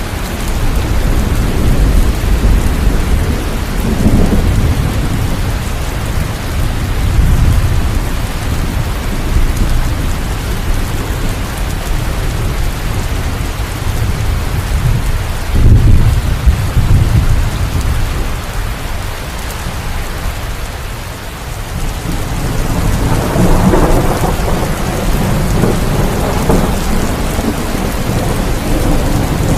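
Steady rain with several low rolls of thunder, the loudest just past halfway.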